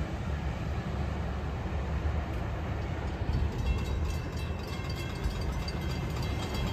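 Low rumble of a freight train moving away along the track. From about halfway through, a railroad grade-crossing warning bell rings steadily and rapidly while the crossing gates are down.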